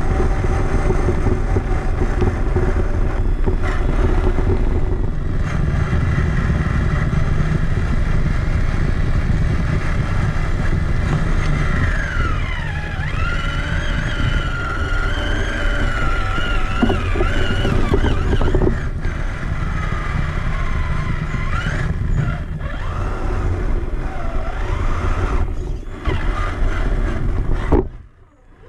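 Traxxas Summit RC truck driving, heard from a camera mounted on it: a steady rumble and rattle from the chassis and tyres, with the electric motor and gears whining up and down in pitch with the throttle. It cuts off abruptly near the end.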